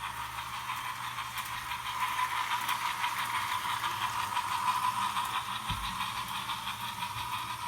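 HO scale model locomotive running along the track: a steady electric motor whir with light, regular clicking of the wheels on the rails.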